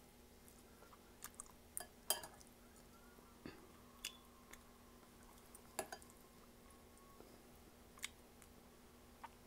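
Faint, close chewing with scattered small clicks and taps, the loudest about two seconds in, from a metal spoon scooping in a glass serving bowl of soup.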